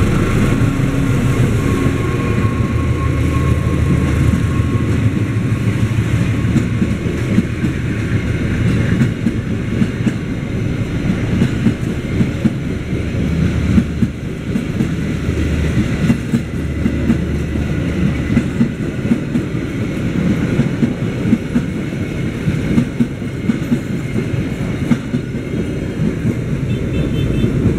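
Diesel-hauled passenger train passing close by: the locomotive's engine is heard at first, then the coaches' wheels rumble and clatter steadily over the rail joints.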